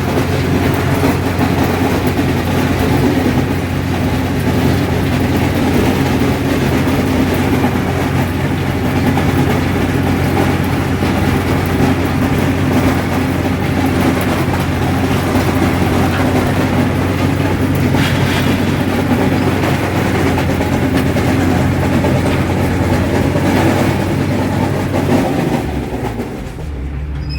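Allis-Chalmers 7000 diesel tractor running steadily while its sickle-bar mower-conditioner cuts hay with a loud, rapid clanging and hammering clatter. The owner suspects the crimper rolls bouncing against each other. The noise eases slightly near the end.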